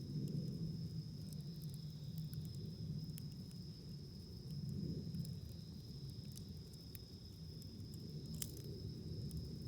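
Wood campfire burning, with a low, uneven rumble of flames and scattered sharp crackles and pops, one louder pop near the end. A steady high-pitched insect drone runs underneath.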